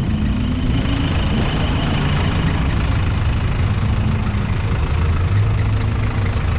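Vehicle engines idling with a steady low rumble, their pitch shifting slightly as cars and trucks move in slow cruise traffic.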